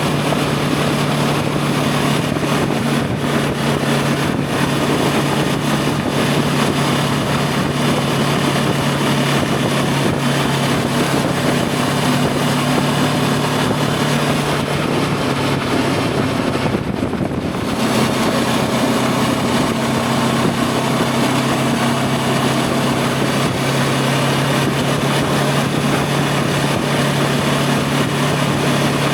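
Voge 525 DSX's parallel-twin engine running at a steady cruise under the rider. The note eases off briefly a little past the middle, then settles back to the same steady pitch.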